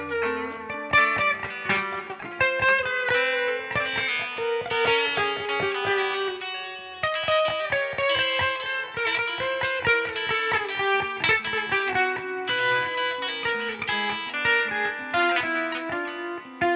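Guitar music: a fast run of quickly picked single notes.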